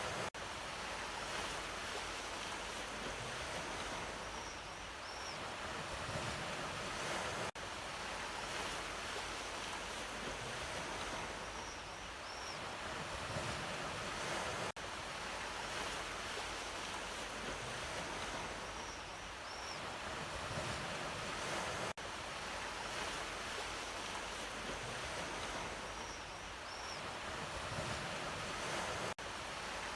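Sea waves washing in, a steady rush that swells and ebbs, repeating as a loop about every seven seconds with a brief dip at each repeat.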